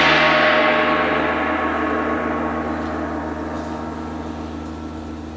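A gong ringing after a single strike, several steady pitches slowly and evenly dying away.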